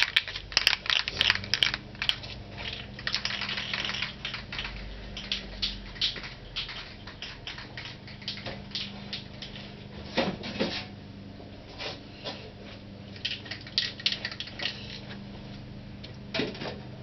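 Aerosol spray can of primer being shaken, its mixing ball rattling in quick, irregular clicks. A steady low hum comes in about a second in and runs underneath.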